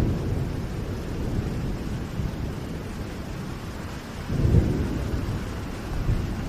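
Steady rain with low rolling thunder, the rumble swelling loudest about four and a half seconds in.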